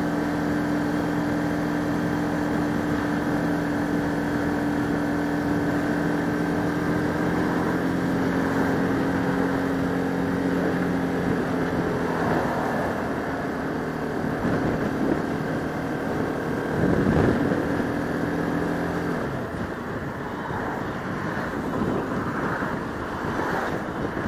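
Bajaj Pulsar RS200 single-cylinder engine running at a steady cruising note under wind rush on the helmet microphone. About three-quarters of the way through, the engine tone drops away and only the wind noise is left.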